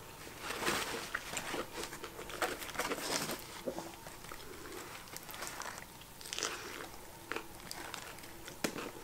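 Close-up eating sounds: chewing on a fast-food burger, with scattered small mouth clicks and soft rustling of a paper napkin and the burger's paper wrapper. A bite into the burger comes near the end.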